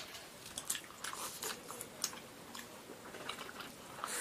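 Close-miked eating of pan-fried Chinese leek pockets (jiucai hezi): wet chewing and biting with irregular small clicks and smacks, the sharpest click right at the start.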